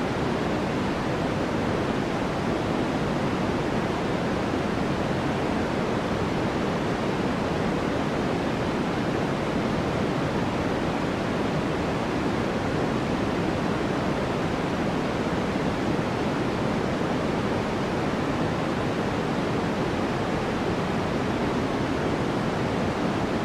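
Steady white-noise track: an even, unbroken hiss weighted toward the low and middle pitches, with no other events.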